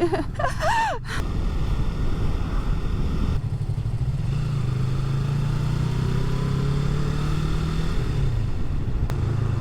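Motorcycle engine running steadily under way, with road and wind noise. The engine note steps up slightly about four and a half seconds in and eases back near the end.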